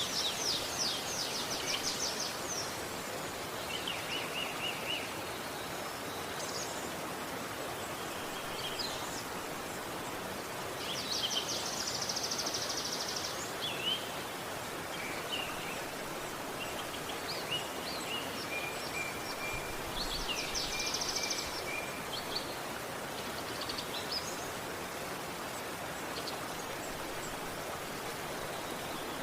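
Steady rush of flowing river water, with several birds calling over it: bursts of fast high trills, short chirps and a thin held whistle.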